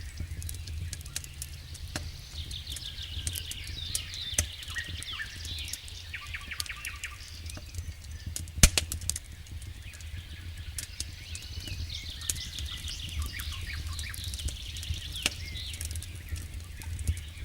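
Wood fire in a fireplace crackling, with scattered sharp pops and one loud pop a little past halfway, over a low steady rumble. High rapid chirping trills come and go alongside.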